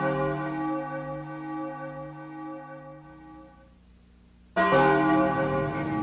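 Large church bell tolling. One stroke rings and slowly fades over about four seconds, and a second stroke comes about three-quarters of the way in, with a rushing noise rising under it near the end.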